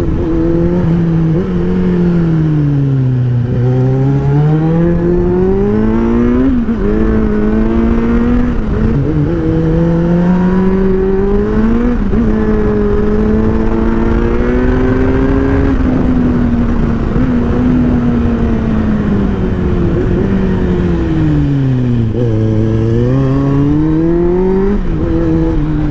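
Superbike engine while riding: its note falls as the bike slows, around three seconds in and again near the end, then climbs as it speeds up again, with a few abrupt steps in pitch between.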